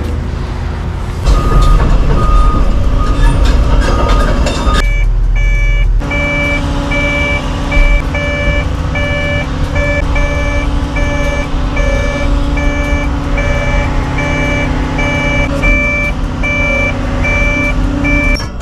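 Doosan 255 excavator's diesel engine running under hydraulic load, with a warning alarm beeping steadily over it. The beep is lower about a second in, stops briefly, then comes back higher-pitched from about six seconds in.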